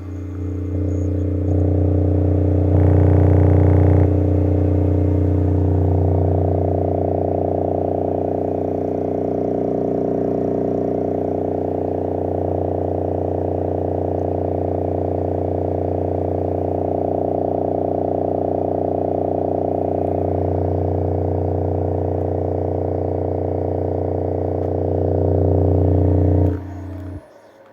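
A loudspeaker in free air, driven by a SounDigital 3000.1 Evo 4.0 car amplifier, plays a loud, steady low bass tone rich in overtones. It gets louder briefly about three seconds in and again near the end, then cuts off suddenly, as in a post-repair power test of the amplifier.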